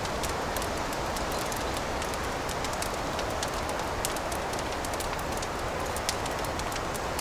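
Fireplace fire burning with a steady hiss and frequent small crackles and pops, one a little louder about six seconds in.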